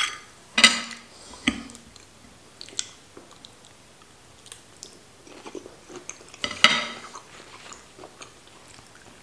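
A person biting and chewing mouthfuls of cooked green beans and then soft bread, with a few short sharp clicks between bites.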